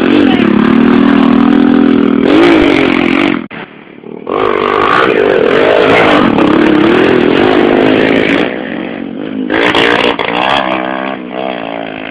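Small 110cc motorcycle engines running hard and revving, their pitch rising and falling. The sound breaks off abruptly about three and a half seconds in and comes back a moment later, then drops lower near the end.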